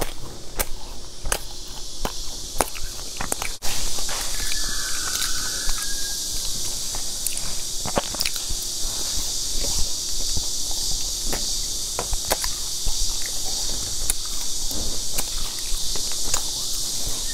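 Close-miked chewing of sticky glazed fried dough, heard as scattered clicks and smacks from the mouth over a steady high hiss.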